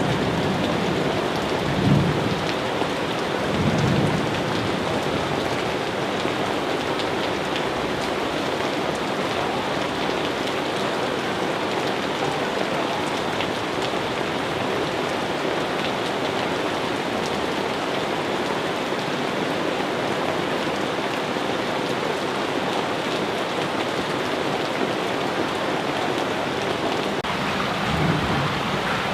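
Steady, heavy rain falling, with brief low rumbles of thunder about two and four seconds in and again near the end.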